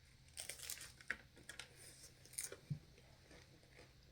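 A person chewing crunchy food close to the microphone: quiet, crisp crunches at irregular moments.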